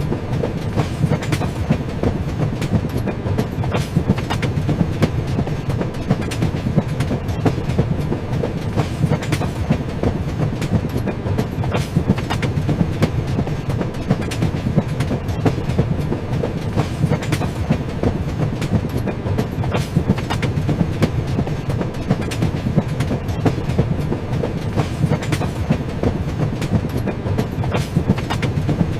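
A moving train running steadily on the tracks: a constant low rumble with frequent irregular clicks and clacks of the wheels over the rails.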